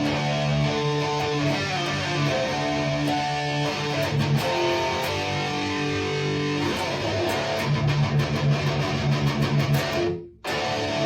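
Electric guitar played through a Mesa Dual Rectifier amplifier fitted with EL34 power tubes and ECC83 preamp tubes: ringing chords and held notes, then fast picked notes about two-thirds of the way in. The sound drops out suddenly and briefly near the end, then the playing comes back.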